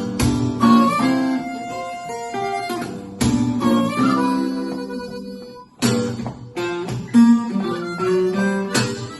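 Harmonica playing a melody over strummed acoustic guitar chords, live, in an instrumental break between sung verses.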